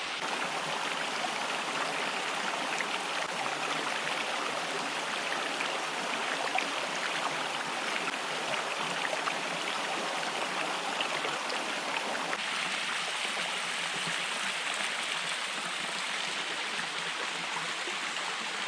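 Mountain stream flowing over rocks: a steady rushing of water.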